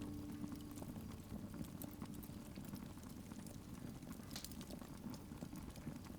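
Burning logs in a fireplace crackling faintly, with scattered irregular pops and snaps over a low hiss.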